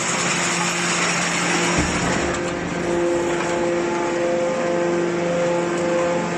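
Small hydraulic can baler's electric motor and hydraulic pump running with a steady hum, with a brief low thump about two seconds in.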